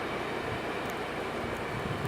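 Freight train of loaded rock cars rolling past, a steady rumble and rattle of wheels on rail with a few faint high ticks.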